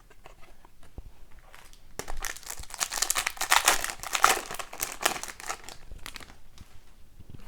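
Crinkly hockey card pack wrapper being torn and crumpled, a dense crackle for a few seconds in the middle, with light handling clicks of cards before and after.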